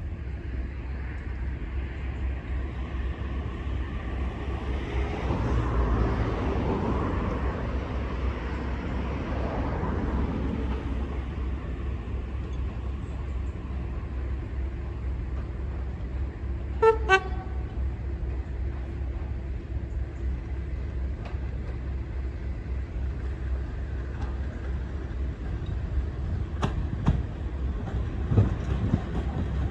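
A heavy vehicle engine running steadily, with a short horn toot of two quick blasts just past halfway, the loudest moment. A few knocks follow near the end.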